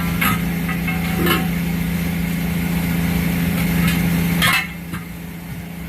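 Idling engine running with a steady hum, with three sharp knocks from the tire-changing tools at work on the truck tires. The background gets quieter after the third knock, about four and a half seconds in.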